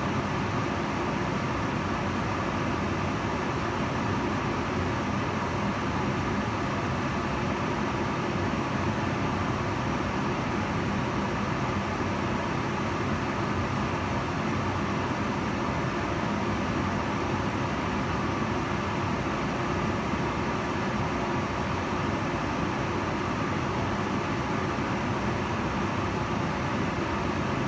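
Kitchen range hood extractor fan running steadily: a constant whooshing rush of air with a faint even hum underneath.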